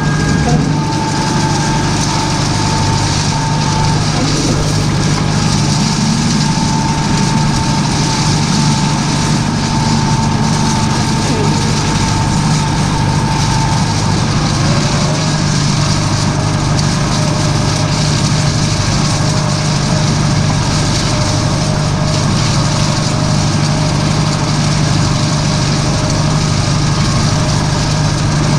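Tractor engine running steadily at a constant speed, with a faint high whine that drops in pitch about halfway through.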